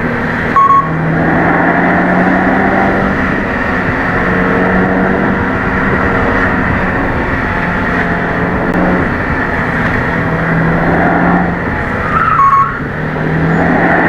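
Subaru WRX S4's turbocharged flat-four engine with its intake and exhaust sound, driven through a CVT: a steady engine note that eases off and picks up again several times. Two brief, loud high-pitched chirps come about half a second in and near the end.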